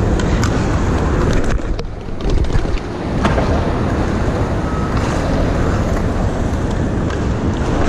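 Steady rumble of street traffic and wind on the microphone, with a few short clicks and knocks scattered through it.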